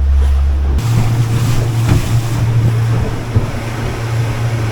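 A C-Dory 22's motor running as the boat cruises, a steady low drone with wind and water rushing past. A little under a second in, the drone jumps abruptly to a higher pitch.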